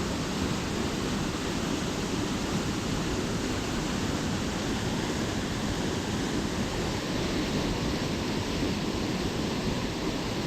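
Steady rushing of a small waterfall pouring into a natural rock pool, a continuous even wash of water noise.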